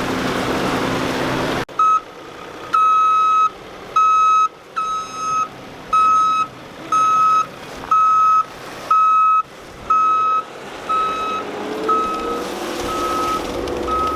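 Vehicle backup alarm beeping steadily about once a second, signalling a machine reversing, over a low engine drone. It is preceded by a short stretch of steady engine and rushing noise that cuts off abruptly.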